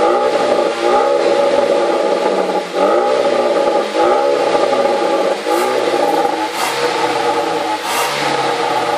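Hyundai Veloster Turbo's 1.6-litre turbocharged four-cylinder revved through a variable-valve exhaust in repeated short blips, the pitch rising and falling back every second or so. A few sharp cracks come in the second half.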